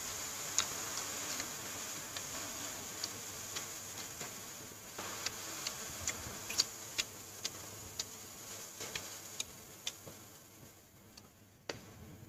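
Close-up mouth sounds of chewing sausage: irregular wet clicks and lip smacks over a steady hiss that slowly fades toward the end.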